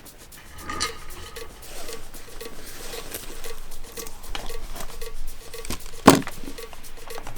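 Denim jeans being handled and played as sound sources: rustling, scratching and sharp clicks of the fabric and its hardware, over a faint even pulse, with one loud knock about six seconds in.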